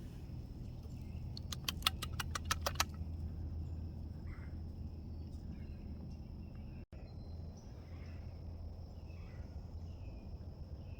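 Outdoor background: a steady low rumble and a thin steady high tone, with a quick run of about ten sharp clicks near two seconds in and a few faint short chirps later on.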